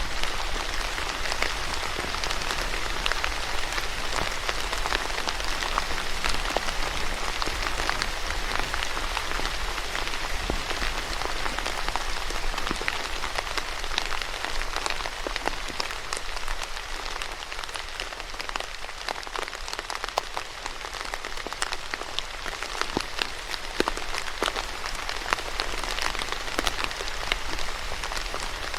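Steady rain falling on a surface, with many individual drops ticking out against a constant hiss.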